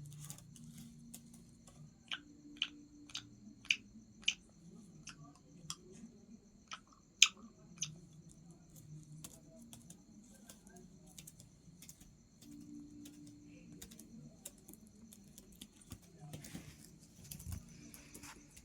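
Irregular sharp clicks or taps, a quick run of them about two a second and then scattered, one much louder than the rest. Under them, a steady high-pitched trill of crickets.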